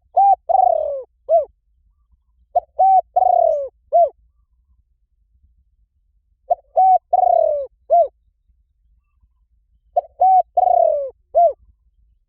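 Spotted dove cooing: four identical phrases a few seconds apart, each a short coo, a second coo, a longer falling coo and a short closing coo.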